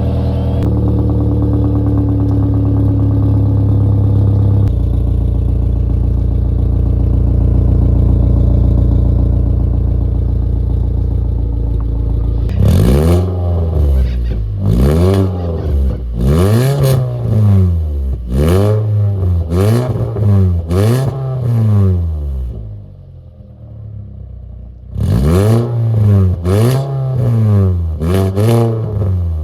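2002 Audi A3's engine running through a chopped, muffler-deleted exhaust with a 4.5-inch tip, idling steadily while it warms up just after starting. About twelve seconds in it is revved in quick blips, roughly one a second, drops back briefly, then is blipped again several times near the end.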